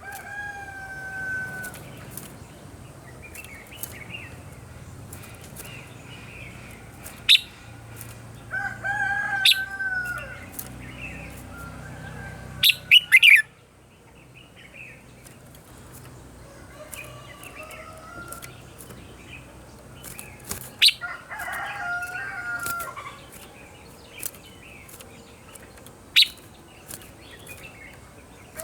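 Red-whiskered bulbul singing in short, rich whistled phrases, with a few sharp, loud notes among them.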